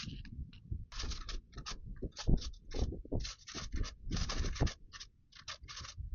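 Thin Bible pages being turned and rustled: a quick, irregular run of short papery swishes and crinkles, with a brief pause about five seconds in.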